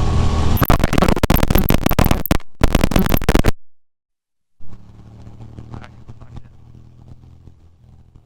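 Ducati Monster V-twin running at highway speed in the rain, buried under dense crackling from wind and rain on the microphone. About three and a half seconds in, the audio cuts out completely for about a second. It comes back much quieter as a faint, steady engine hum with light crackle.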